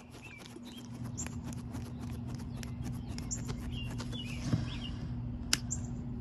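Small birds chirping in short, repeated calls about once a second, over a steady low hum and scattered faint clicks.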